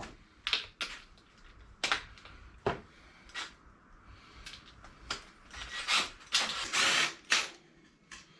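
Tools and metal mower parts being handled on a workbench: a series of sharp clicks and knocks, with a longer, noisier scraping stretch around six to seven seconds in.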